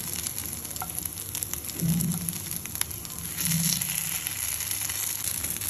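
Poha-and-potato patties sizzling in a little oil in a kadai, with a few sharp clicks of a spatula as they are turned over. The sizzle grows louder for a moment about halfway through, as a patty is flipped onto its raw side.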